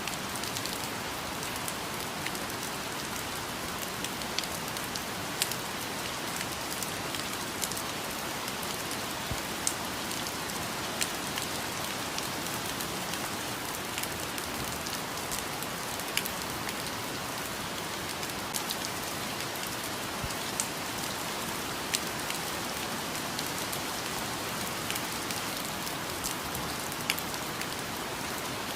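Steady rainfall with individual drops striking close by, a few sharp drop hits standing out every second or so.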